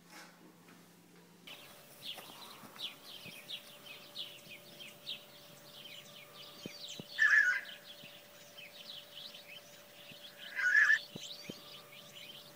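Birds chirping in quick, repeated calls, starting suddenly about a second and a half in, with two louder bursts, one midway and one near the end, over a faint steady hum.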